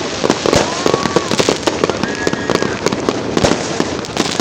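New Year fireworks going off in a dense, continuous barrage of bangs and crackling pops, with a few short whistling tones among them.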